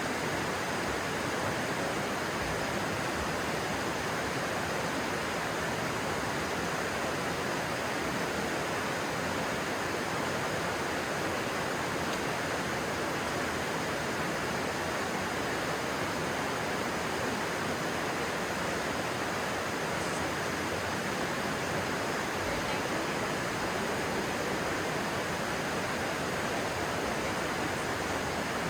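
Steady rushing of a stream's flowing water, a constant even hiss with no breaks.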